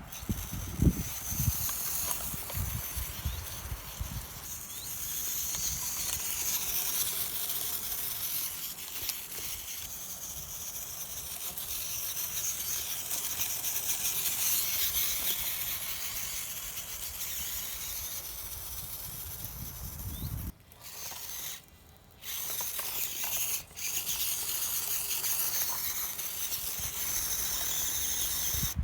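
Hobby Plus CR-24 micro RC crawler's small electric motor and gears whirring steadily as it drives, with a high hiss. The whir cuts out briefly a few times around twenty seconds in.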